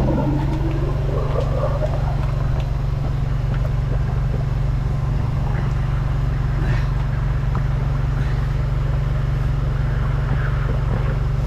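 A drain-jetting machine's engine and pump running steadily with a low hum while the jet works in the pipe. A brief rising tone comes in the first two seconds.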